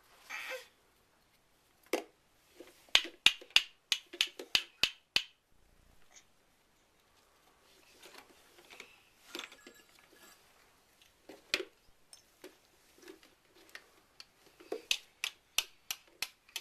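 Sharp clicking taps: one, then a quick run of about four a second, a few scattered ones, and another quick run near the end.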